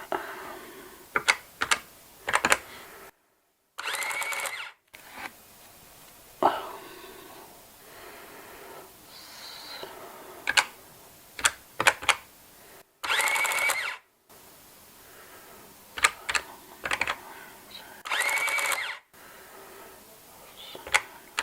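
Cash register keys pressed in quick groups of clicks, with the register's mechanism whirring for about a second three times.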